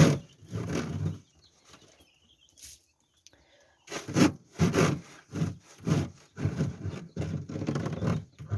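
Repeated scraping and rubbing strokes while dirty litter and droppings are cleaned out of a brooder tray. There are a few strokes, then a pause of a couple of seconds, then a steady run of about two strokes a second.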